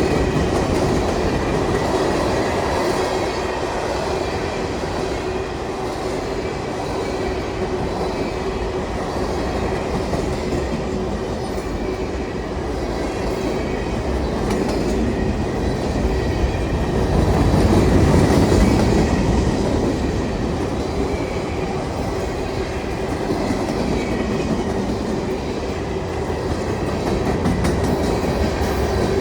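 Freight train cars rolling steadily past, wheels clacking over the rails with a steady ringing tone underneath. The sound swells briefly a little past the middle.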